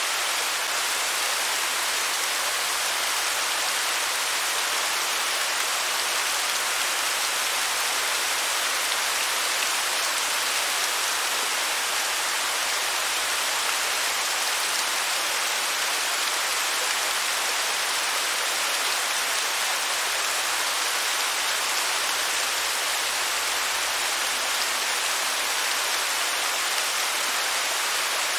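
Waterfall: a steady, even rush of falling water, with no changes.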